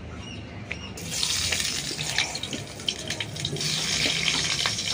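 Cut potato pieces dropped into hot oil in a kadai, setting off a sizzle about a second in that carries on steadily with scattered crackles.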